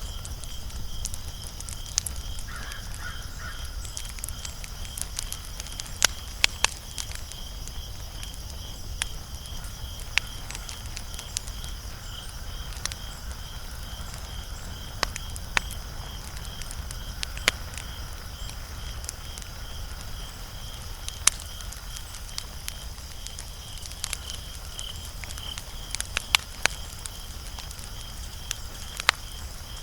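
Wood fire crackling, with sharp pops at irregular intervals over a steady low rumble. A high, evenly pulsing chirp runs steadily beneath it.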